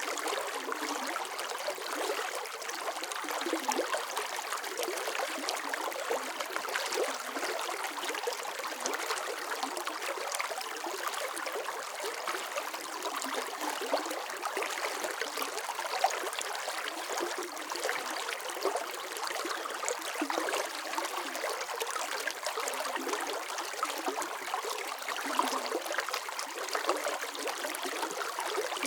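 Running water flowing steadily, a constant splashing rush with small bubbling flicks throughout.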